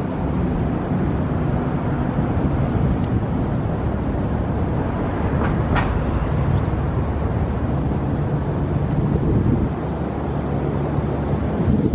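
Steady low rumble of riding an electric kick scooter: wheels on pavement and wind, with a wavering low hum throughout.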